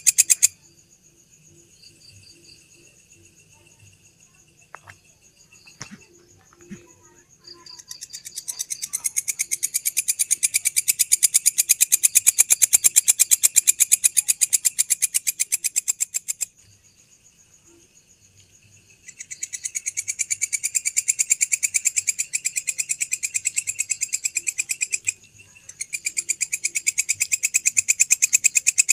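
A belalang (grasshopper) singing at night: a loud, rapid buzzing trill made of very fast pulses, in three long bouts that start about a quarter of the way in, stop for a few seconds in the middle and break briefly near the end. Between the bouts, fainter steady high-pitched insect calls and a few soft clicks are heard.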